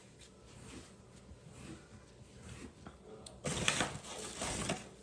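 Bread-type dough being kneaded by hand on a floured counter: faint soft handling noise, then a short run of louder pushes and scuffs of the dough against the counter from about three and a half seconds in.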